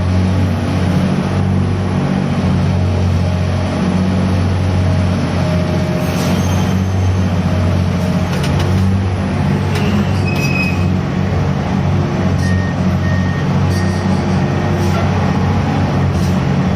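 Grab-crane machinery of a gravel carrier running steadily with a low, even hum, with a few short metallic clanks around the middle.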